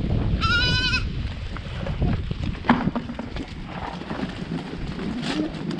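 A Boer goat bleats once, a short wavering call about half a second in, over a steady low rumble and scattered knocks.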